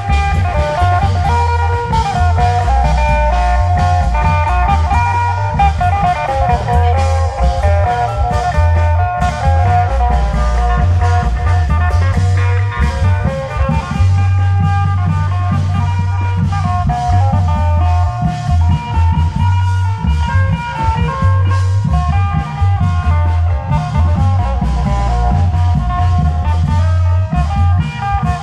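Isan klong yao procession band music: an amplified, guitar-like melody over a heavy, steady bass line, with drums, playing without a break.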